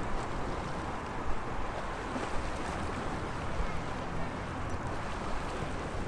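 Sea waves washing against the shore in a steady wash, with small surges.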